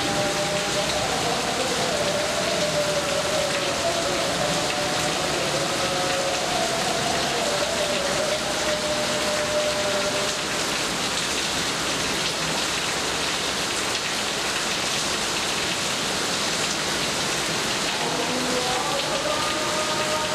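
Steady rain falling, an even hiss with no thunder. A faint wavering tone sounds over it in the first half and again near the end.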